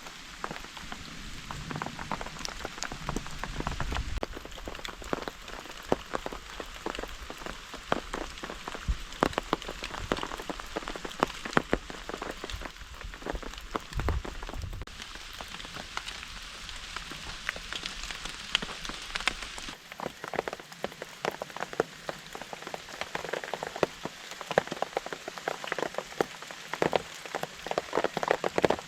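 Steady rain falling, with many large drops tapping sharply and irregularly on a surface close by.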